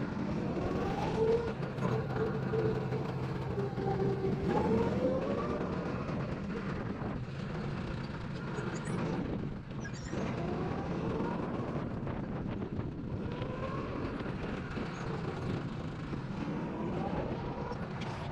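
Go-kart engines running, their pitch rising and falling as the karts speed up and slow down around the track.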